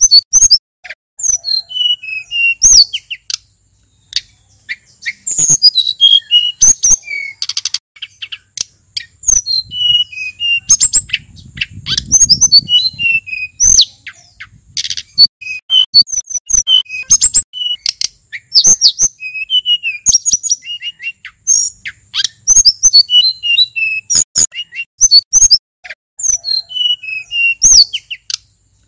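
A male sulingan gunung singing a varied song: phrases of quick high chirps and short falling whistles, repeated with brief pauses, and a faint low rumble about twelve seconds in.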